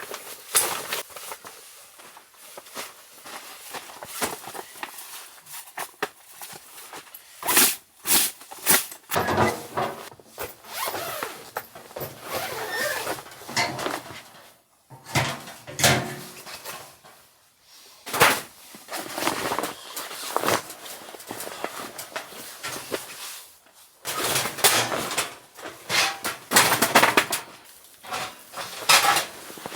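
Irregular rustling, scraping and clicking of objects being handled, with a few sharper knocks and clatters.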